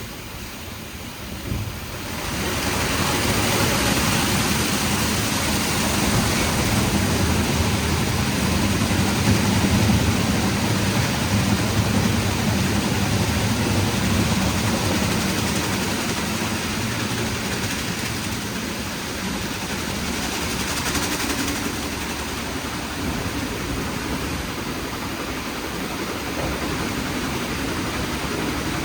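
WashTec SoftCare² Pro rollover car wash in operation: a steady rush of water spraying onto the car over the low hum of the gantry machinery, picking up about two seconds in.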